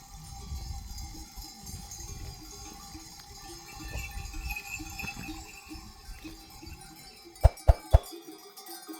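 Bells on a grazing flock of sheep clinking and clanking over a low rumble. Three sharp knocks come close together near the end.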